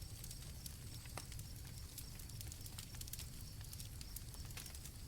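Faint crackling campfire, with irregular sharp pops and snaps over a low rumble, and crickets chirping in the background.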